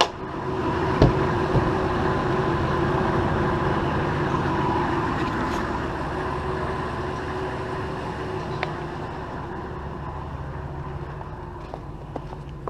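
Chevy 6.5 L turbo-diesel V8 of a 1994 motorhome idling steadily as it warms up after a cold start, with a single click about a second in; the sound grows gradually fainter through the second half.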